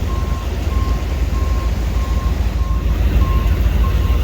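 Vehicle reversing alarm beeping in a steady single-tone pulse, a little under two beeps a second, over a heavy low rumble.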